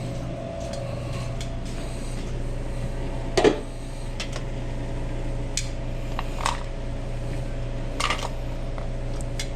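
Kitchen work sounds: scattered clinks and clatters of dishes and utensils, the loudest about three and a half seconds in, over a steady hum of kitchen equipment.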